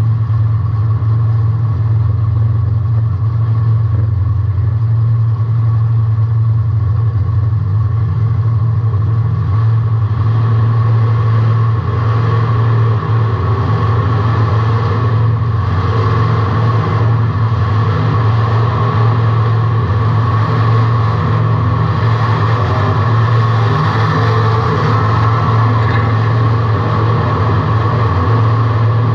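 Race car engine running hard, heard from the in-car camera inside the cockpit: a loud, steady drone that holds nearly the same pitch throughout.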